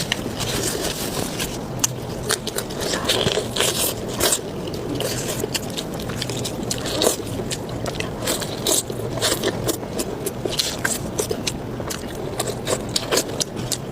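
Close-miked eating sounds of spicy pork belly being bitten and chewed: a dense, continuous run of wet clicks, smacks and crunches.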